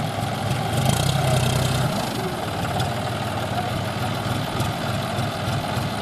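Diesel tractor engine running steadily, briefly louder for about a second and a half near the start.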